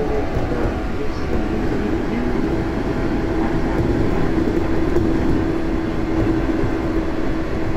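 A 415 series electric multiple unit running along the line: a steady rumble of wheels on rail with a held humming tone that grows stronger in the middle.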